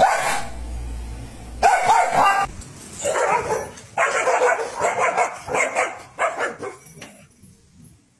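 Dogs barking: a few loud barks early on, then a quick run of short barks, about three a second, that dies away near the end.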